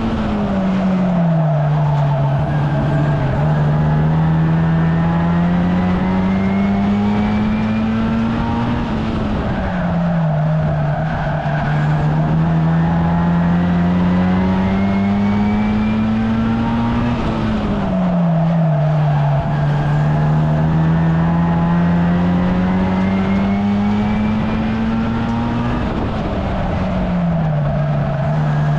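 A 1300cc stockcar engine running hard under race load. Its pitch climbs slowly and then drops quickly four times, about every eight and a half seconds, as it lifts off for each bend and pulls again.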